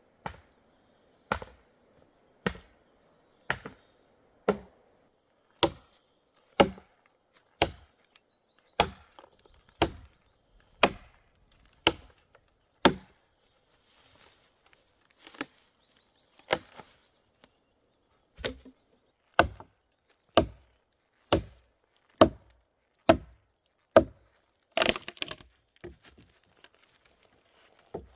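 Wood being chopped with a blade: sharp single blows about once a second, pausing for a few seconds midway, then resuming, with a rougher flurry of splintering cracks near the end.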